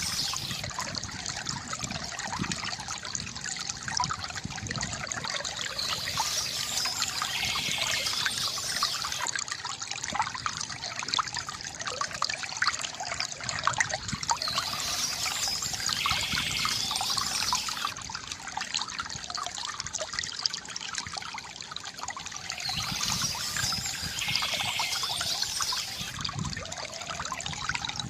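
Water from a bamboo fountain trickling and splashing steadily, a continuous gurgle made of many small drops, with no break.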